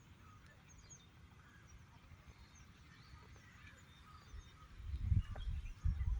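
Outdoor ambience of faint, scattered bird chirps, with gusts of wind buffeting the microphone as a low, uneven rumble from about two-thirds of the way in.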